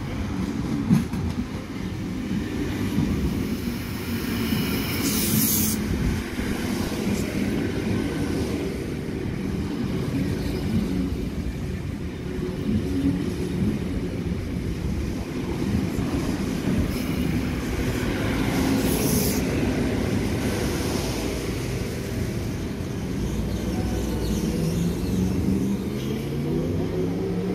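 Sydney Trains stainless-steel double-deck electric train passing close by, a steady rumble of wheels on rail. Two short high hisses come about five seconds in and again near twenty seconds, and a rising whine sets in near the end.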